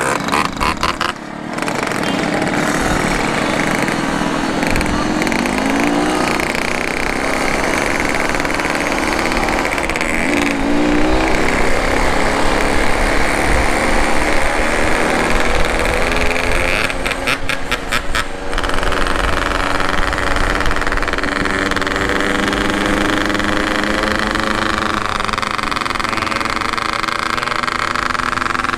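Motorcycle engine running under way, its pitch rising and falling with throttle changes, with a few short knocks about a second in and again about two-thirds through.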